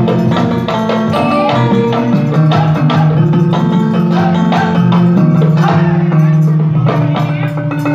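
Javanese gamelan-style dance music: dense metal and mallet percussion strikes with drumming over long held pitched notes, played at a steady loud level.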